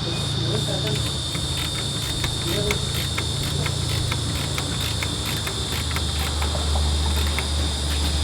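Steady high chirring of crickets, with a run of light, irregular clicks and a low hum underneath.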